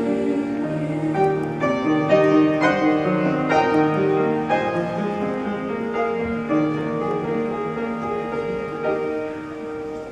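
Solo piano playing the closing bars of a choir song's accompaniment after the singers have stopped, notes struck and left ringing. It dies away near the end.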